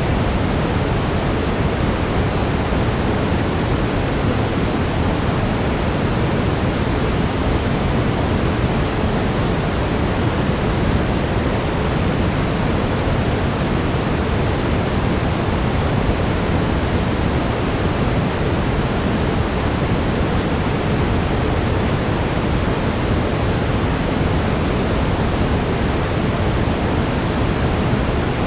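Steady brown noise, a constant rushing hiss weighted toward the low end, with a faint steady tone near 432 Hz underneath.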